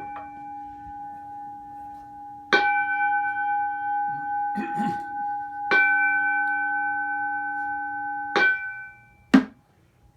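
Temple bowl bell (keisu) struck four times, the first softer, each stroke ringing on with a steady, several-toned hum; the last ring is damped about a second after it is struck, and a sharp knock follows near the end. The strokes signal the start of the sutra chanting.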